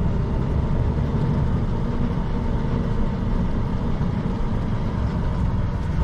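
Steady engine and road noise of a 5-ton tow truck driving along, heavy in the low end and unchanging.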